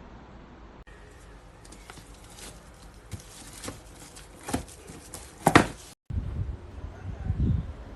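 A series of separate clicks and knocks, the loudest about five and a half seconds in. After a brief cut-out near six seconds come a few low thuds.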